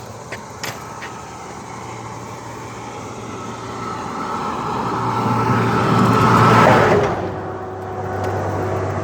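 A motor vehicle approaching and passing close by on the road, its engine and tyre noise building for several seconds and falling away suddenly about seven seconds in. A few light clicks near the start.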